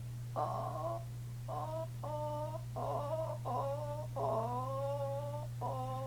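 A sleeping man making a string of strange high-pitched, moaning vocal noises: short calls broken up every half second or so, then two long held tones, one rising slightly at its start. A steady electrical hum underneath.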